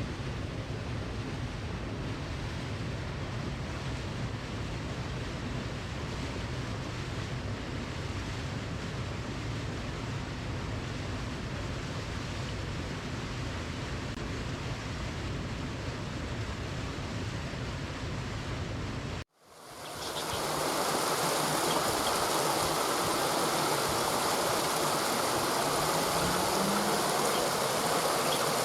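Waterfall: a steady rush of falling water, deep and heavy in the low end. About two-thirds through it cuts out abruptly and gives way to another, louder and brighter rush of water.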